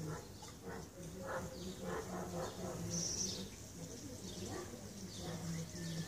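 Birds chirping, short and high, the clearest about halfway through, over a low, voice-like murmur made of short syllables.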